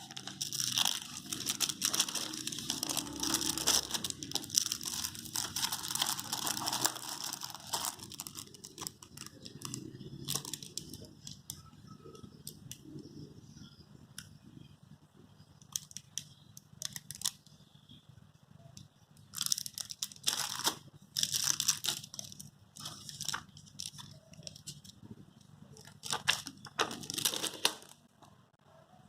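Packaging of a table tennis rubber being crinkled and torn open by hand. There is a long stretch of rustling at the start, a quieter spell, and then further bursts of crinkling.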